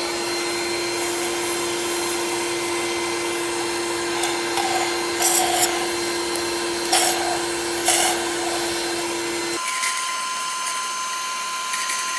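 Vacuum cleaner running steadily, sucking brake cleaner and dirty oil out of a spark plug tube through a taped drinking-straw nozzle. Several short sucking slurps come in the middle. Near the end the sound switches abruptly to a thinner, higher whine.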